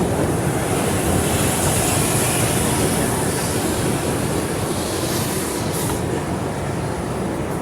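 An R211 subway train running between stations: a steady rumble of wheels on the rails.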